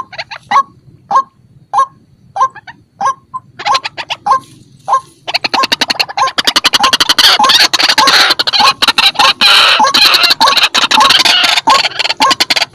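White-breasted waterhen (ruak-ruak) calling: a harsh note repeated about every half second. From about five seconds in, a loud, rapid, stuttering chatter joins the repeated calls.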